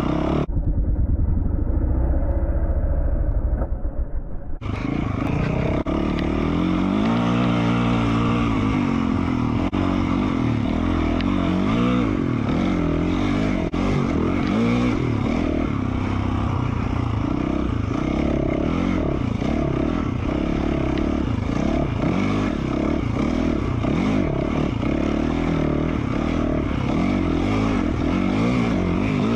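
2020 Yamaha YZ450F's single-cylinder four-stroke engine, through an FMF Q4 slip-on exhaust, running and revving up and down as the dirt bike is ridden. For the first four seconds or so only the low part of the sound comes through, muffled, before the full sound cuts in.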